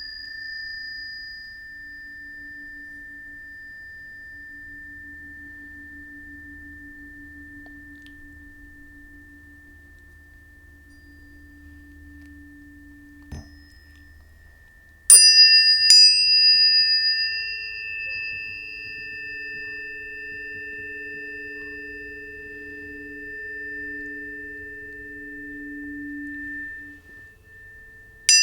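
Planetary tuning forks struck and left to ring: a clear high tone fades slowly, then about halfway through a fork is struck twice in quick succession, adding a second, higher tone over the first, with fainter low tones underneath. Another fork is struck right at the end.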